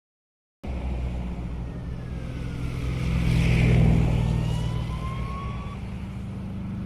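Motor vehicle engine running, starting abruptly about half a second in, swelling louder around the middle and then easing off.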